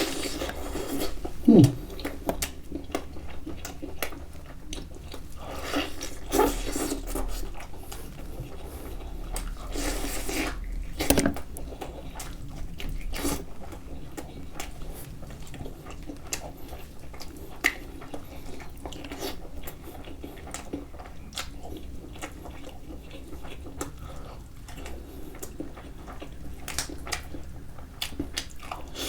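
Close-miked eating of turkey wings in sauce: biting and chewing with many short mouth clicks. A brief falling hum comes about one and a half seconds in.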